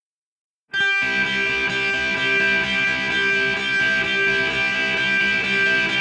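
Silence, then under a second in, a post-hardcore band's track starts with sustained, ringing electric guitar with effects, holding at a steady level.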